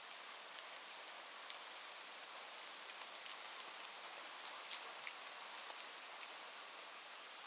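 Steady soft rain, a constant hiss with scattered faint drop ticks.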